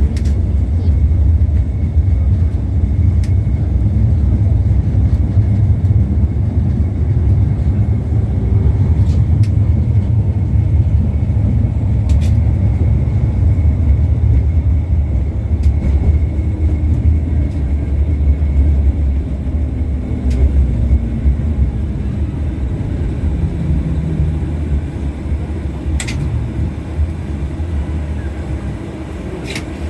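Inside an LVS-86K articulated trolleybus under way: a steady low rumble of the running gear and road, with faint rising and falling motor whine and a few sharp clicks. The rumble eases off near the end.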